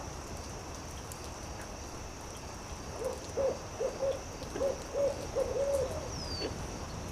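Owl hooting: a run of about seven short low hoots starting about three seconds in, over faint crackling of a campfire.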